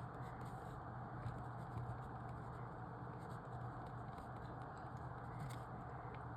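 Quiet steady background hiss and low hum (room tone), with a few faint small ticks.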